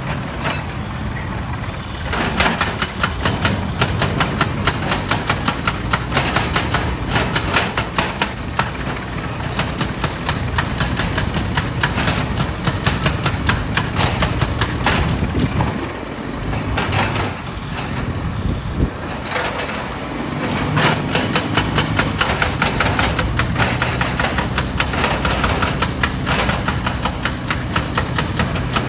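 Heavy stone-crushing machinery running: a low, steady engine rumble under a rapid, irregular clatter of hard knocks as rock is handled and crushed.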